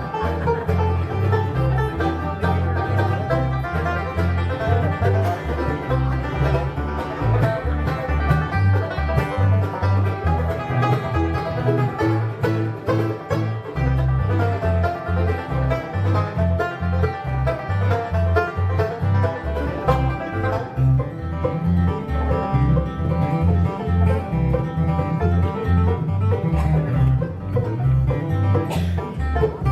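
Live bluegrass band playing an instrumental rag at a lively tempo: banjo picking over guitar, upright bass and a bowed string, probably fiddle, on a steady two-beat bass pulse.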